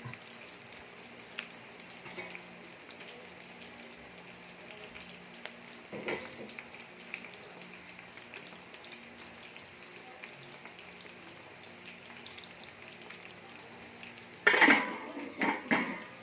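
Chicken frying in hot oil, a steady sizzle with crackling spatters. There is a single knock about six seconds in, and a few loud clatters near the end.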